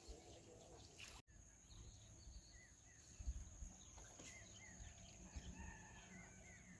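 Near-silent outdoor ambience with small birds chirping faintly: short curved chirps, several in the second half, over a thin steady high whine. The sound cuts out for an instant about a second in.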